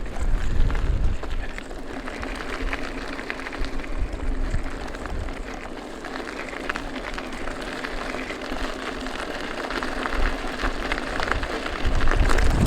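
Merida Big Trail 500 mountain bike rolling downhill, its tyres crackling over a rough track. Gusts of wind buffet the microphone, strongest in the first second or so and again near the end.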